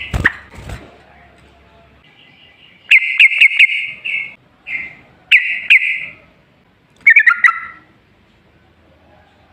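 Yellow-vented bulbul (trucukan) singing: four loud, bubbly phrases of quick notes with short pauses between them, starting about three seconds in. A dull thump comes right at the start.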